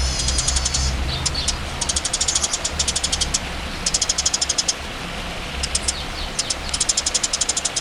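Songbird singing rapid trains of sharp, high repeated notes, about ten a second, in several bursts with short gaps, over a steady low rumble.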